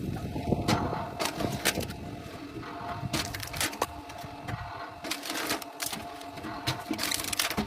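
Firewood cracking and splintering as a powered machine splits it, in sharp irregular cracks over a steady machine hum.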